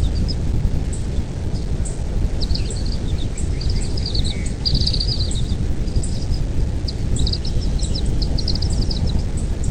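Steady low rumble of wind noise, with quick runs of high bird chirps from about two seconds in until near the end.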